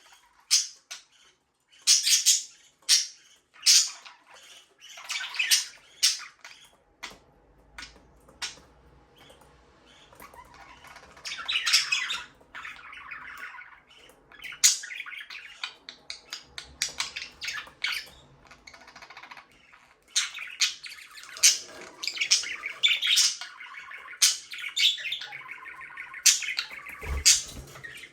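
Budgerigars chirping, squawking and warbling, with many sharp high calls and stretches of busy chatter. A single low thump comes near the end.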